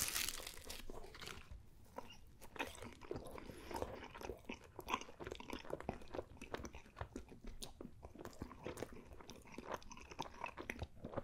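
A person chewing a mouthful of pepperoni pizza with crusty, browned edges, close to the microphone. Irregular crunching with many small wet clicks and crackles as he chews.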